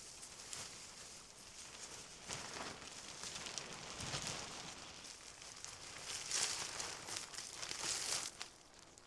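Irregular rustling and crinkling handling noises, a series of dry scrapes that grow loudest about six to eight seconds in.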